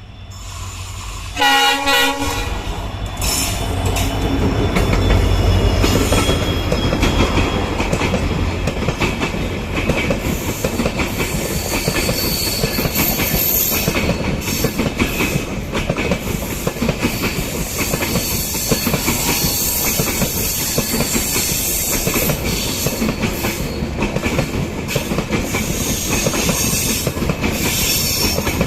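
An express passenger train sounds a short horn blast, then runs past with a steady rush and a rhythmic clickety-clack of wheels over the rail joints.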